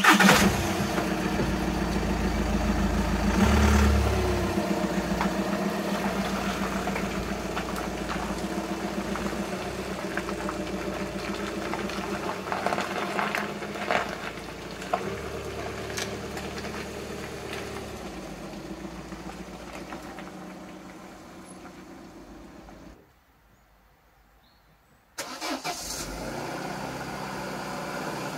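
VW Passat B7 engine starting and running, with a brief rise in revs about four seconds in, then fading gradually as the car moves away. After a sudden cut about 23 seconds in, an engine idles for the last few seconds.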